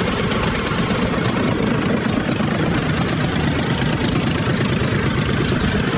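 Heavy machine engine running steadily: a dense, even mechanical noise strongest in the low range, with a slight shift in its tone near the end.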